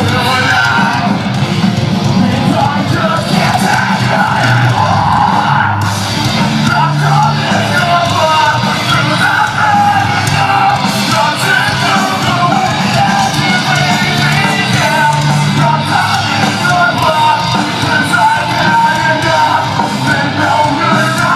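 Live heavy rock band playing loud through a concert PA, with yelled, shouted lead vocals over distorted guitars, bass and drums, recorded from the crowd.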